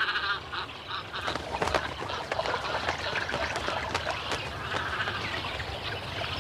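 Great cormorant nesting colony: many birds calling over one another in a dense jumble of short calls.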